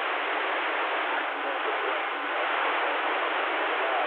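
CB radio static: a steady hiss from the receiver's speaker between transmissions, cut off above and below like radio audio.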